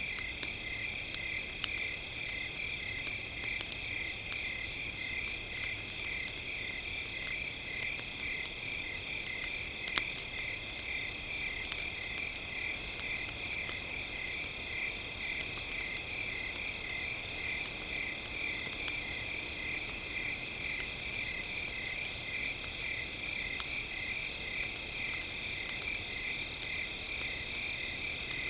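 Campfire crackling: scattered small pops of burning wood, one louder pop about ten seconds in, over a steady high-pitched chirring that pulses a few times a second.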